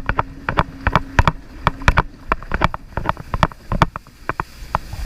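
Jet ski engine running with a steady low hum that stops about two seconds in, amid many sharp, irregular knocks and slaps.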